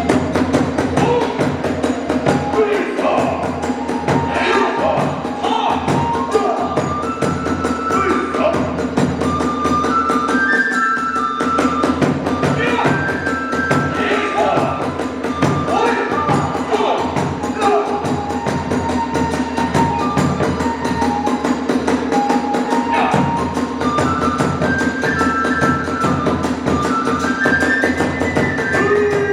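Hiroshima kagura accompaniment (kagura-bayashi): drums beating a fast, steady rhythm under a transverse flute playing a melody of held notes that step up and down.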